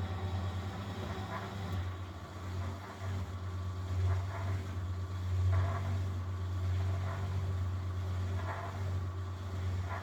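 1971 Constructa Garant 491 washing machine running a boil wash: a steady low motor hum while the drum turns, with laundry and water sloshing about every second and a half.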